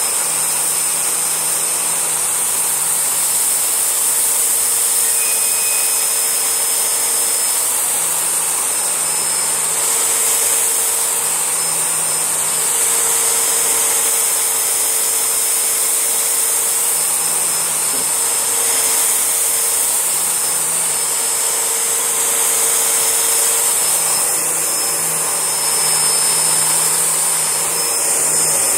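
Panasonic MC-E4103 twin-cylinder bagless vacuum cleaner running and sucking up a spread of flour, rice and cereal. It gives a steady hiss with a lower hum that comes and goes every few seconds.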